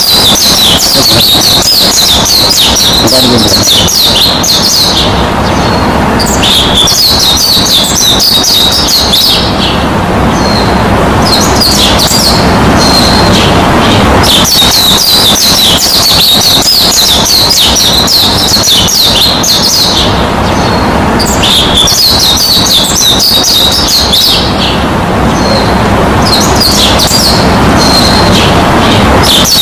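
Birds chirping and twittering in dense, high clusters that come and go every few seconds, over a steady even hiss.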